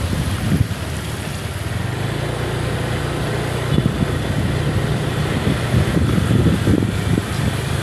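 A vehicle engine running at a steady pitch, with uneven low thumps over it.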